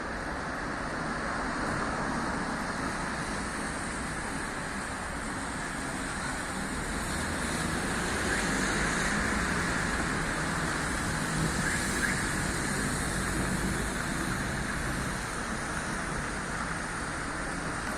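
City street traffic noise: a steady wash of cars going by, swelling louder for several seconds in the middle as vehicles pass close.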